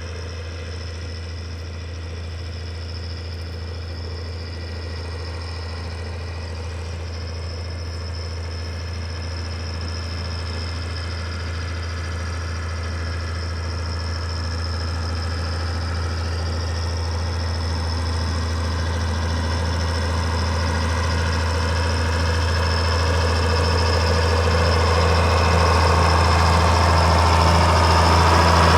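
International 956 tractor's six-cylinder diesel engine running steadily under a plough, growing steadily louder as the tractor comes closer.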